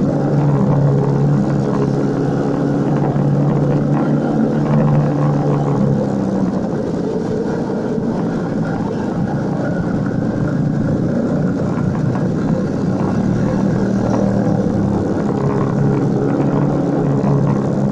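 Motorcycle engine running under way, with wind and road noise. Its note eases off about six seconds in and picks up again near the end.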